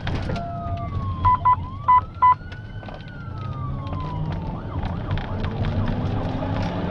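Police car siren wailing in slow rises and falls over steady engine and road noise from a cruiser at pursuit speed, with four short, loud beeps about a second in.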